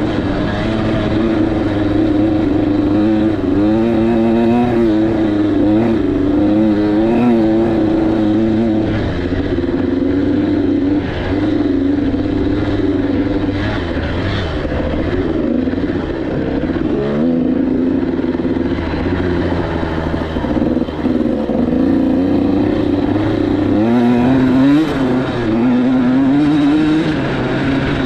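KTM 85 SX 85cc single-cylinder two-stroke dirt bike engine running under riding load. The revs rise and fall over and over as the throttle is worked, with a sharper climb about two-thirds of the way through.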